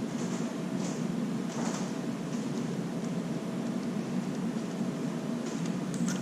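A steady low hum, like a fan or air-conditioning unit, with a few faint light clicks from handling tools or parts.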